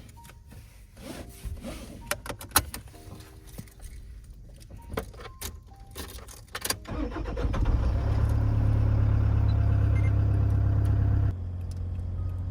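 Clicks and rattles of handling, then the Toyota Hiace van's engine is started about seven seconds in. It runs at a steady idle, which drops to a lower, quieter level near the end.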